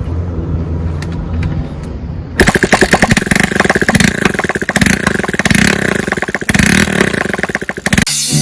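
Single-cylinder Loncin 152FMI 125cc four-stroke engine in a Honda CD50 motorcycle, running low and steady at first. About two and a half seconds in it gets much louder and revs with a rapid firing beat. Near the end it cuts off abruptly into music.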